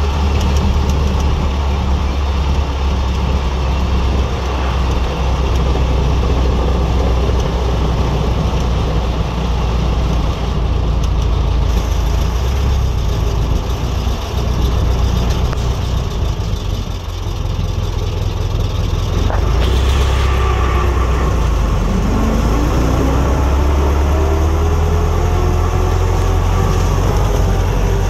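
Ford Model T's four-cylinder engine running as the car is driven, heard from the driver's seat with a steady low rumble. About twenty-two seconds in, the engine note rises steadily as the car picks up speed.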